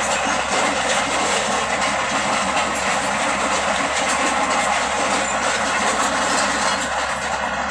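Bulldozer on the move: its diesel engine running steadily, with the rattle of its steel tracks.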